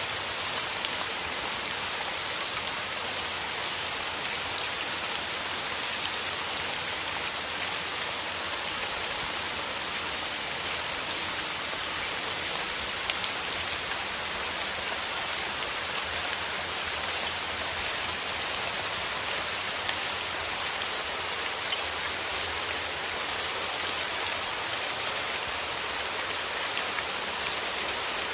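Steady rain falling, an even hiss of drops with many fine individual drop ticks.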